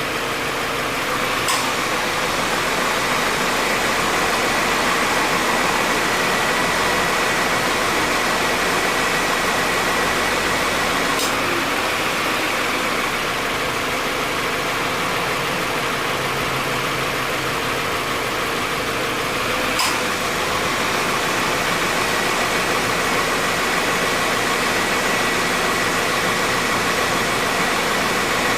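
Subaru XV 2.0's engine idling with the air conditioning running, heard from in front of the car: an even, steady running noise with a faint steady whine. A light click comes three times, about every nine seconds. The compressor makes no abnormal noise.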